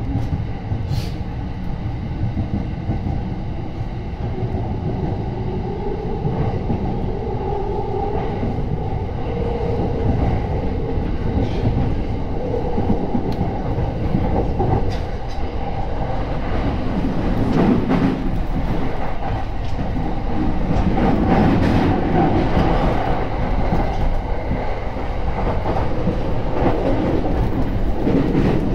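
Yokosuka Line commuter train running, heard from inside the carriage: a steady rumble of wheels on rail with occasional clicks from rail joints. An electric motor whine rises in pitch partway through, and the noise grows louder as the train gathers speed.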